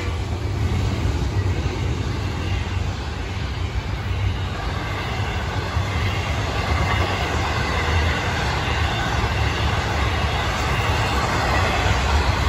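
Double-stack intermodal container cars of a freight train rolling past: a steady rumble and clatter of steel wheels on rail, growing slightly louder near the end.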